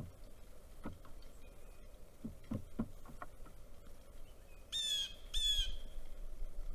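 A bird gives two loud, harsh calls in quick succession near the end, each about half a second long. Earlier come a few dull knocks, and faint short chirps sound in the background.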